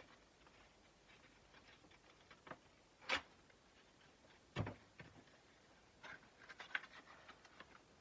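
Faint, irregular scratches and clicks from hand-sanding a steel kukri blade. Two sharper knocks come about three and four and a half seconds in, and a cluster of light clicks follows near the end.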